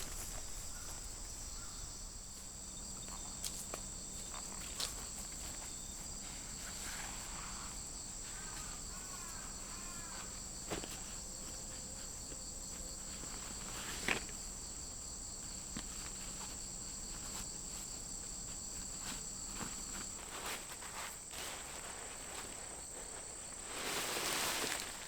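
Insects, crickets or similar, chirring steadily in several constant high-pitched tones, with a few faint clicks and knocks. A short stretch of rustling comes near the end.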